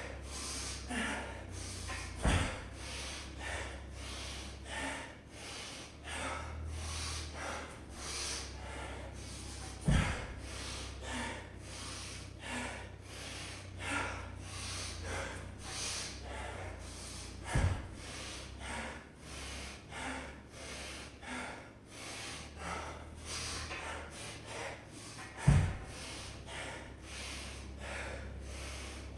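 A person breathing hard and rhythmically through the nose and mouth during heavy exercise, about one breath a second. Four sharp knocks come at even intervals of about seven to eight seconds.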